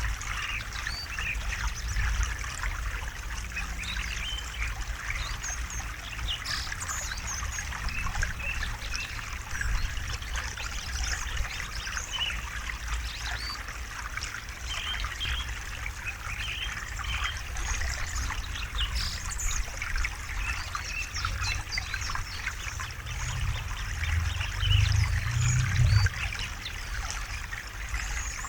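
A small river or stream babbling and trickling over rocks: a dense, steady patter of small splashes over a low rumble of flowing water. The low rumble swells for a few seconds near the end.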